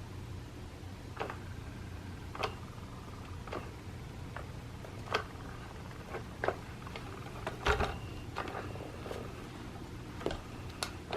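Motorised cat toy running with a steady low hum, with irregular clicks and ticks from its moving parts and a louder clatter about three-quarters of the way through.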